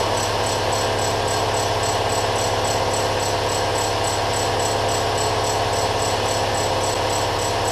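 Small portable air compressor running steadily with a buzzing hum, pumping up a tire that had lost pressure.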